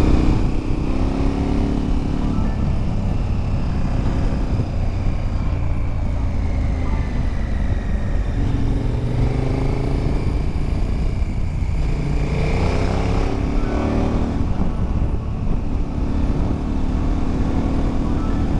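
KTM 1090 Adventure's V-twin engine running under way, the revs rising and falling several times, over steady low wind and road noise.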